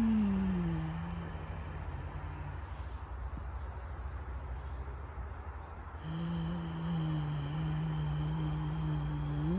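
Humming: a note that slides down and fades after about two seconds, then a long, steady, low hummed note from about six seconds in. Small birds chirp high and repeatedly behind it, about two calls a second.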